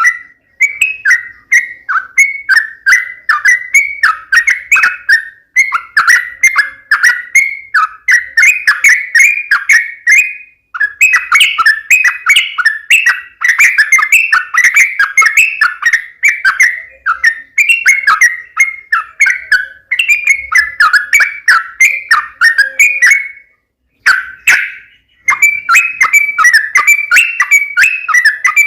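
Yellow-vented bulbul (trucukan) singing loudly: long runs of quick, bubbly chattering notes, several a second, with a few short breaks and a pause of about a second near the end.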